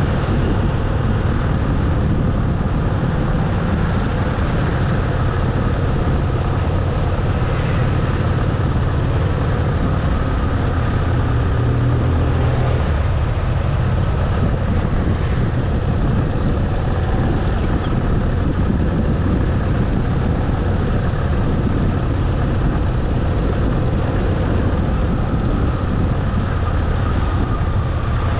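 Motorcycle engine running at a steady cruise, its low drone holding an even pitch with no revving.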